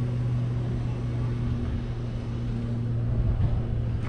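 An engine running steadily: a constant low hum with an even rumble of noise over it.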